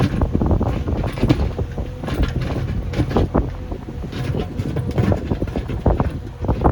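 JCB backhoe loader's diesel engine running, with frequent clunks and knocks, and wind buffeting the microphone.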